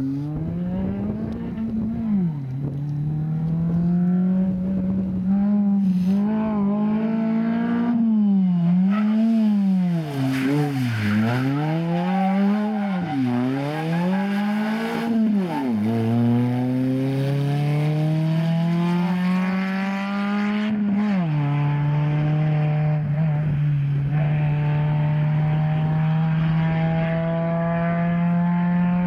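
A rally car's engine is driven hard through a tight chicane, revs rising and falling quickly as the throttle is lifted and reapplied. It then accelerates away in long pulls, with sudden drops in pitch at the upshifts.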